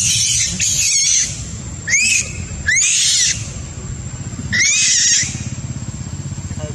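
Young macaque monkey screaming in four shrill bursts, each a high squeal that arches up and falls away. This is the distress cry of a young monkey.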